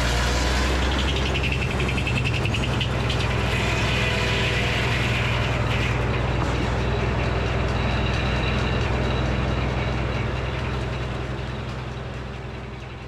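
Frick sawmill running, its engine a steady low drone, with a higher whine over the first half as the circular blade cuts through a black walnut log. The sound dies away near the end.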